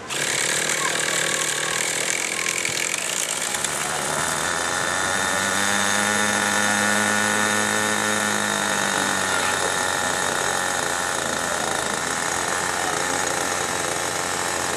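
Small glow-fuel engine of a Hirobo Shuttle model helicopter running at high revs, its pitch swelling and falling back about halfway through.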